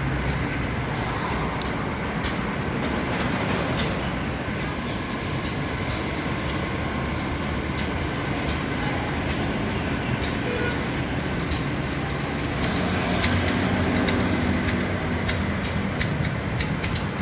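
Steady rumbling background noise like traffic, with many scattered sharp clicks and clatters; it swells slightly about three-quarters of the way through.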